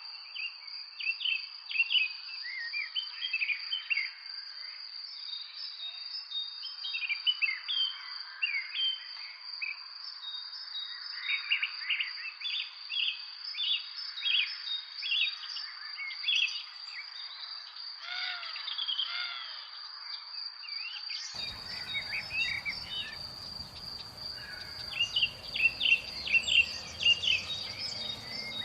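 Many small birds chirping and twittering in quick, overlapping calls, over a steady high-pitched insect drone. About 21 seconds in, a low background rumble comes in abruptly.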